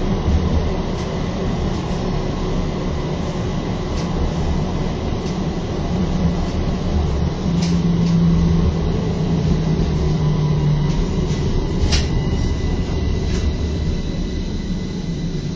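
Istanbul T1 tram running along its rails, heard from on board: a steady low rumble of wheels and motors with a few sharp clicks scattered through it, and a low hum that comes in over the middle of the run.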